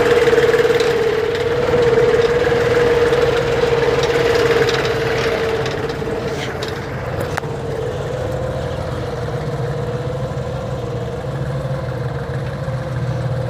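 Deutz-Fahr 45 hp tractor's diesel engine running steadily with a strong hum. It is louder for the first five seconds, then eases down and settles, with a single click about halfway through.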